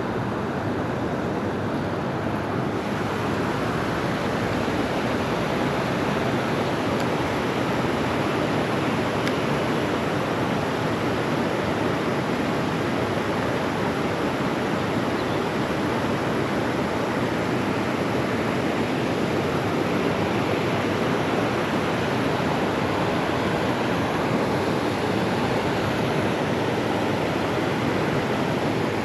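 Steady rushing of creek water flowing over a riffle around a wading angler.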